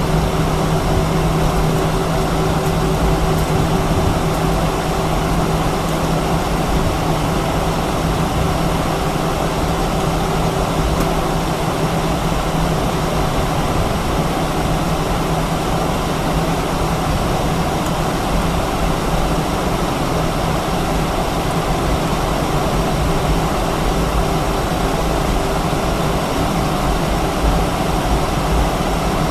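Airbus A319's IAE V2500 jet engines running steadily at idle, heard from inside the passenger cabin as an even rumble with a low steady hum and a fainter higher tone.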